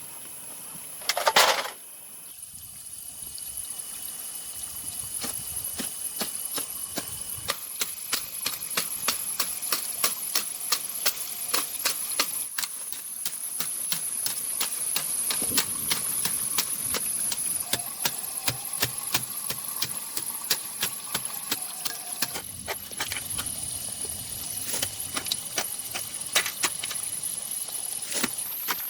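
Many rapid clicks and taps over a steady high-pitched insect drone, with one loud sweep falling in pitch about a second in.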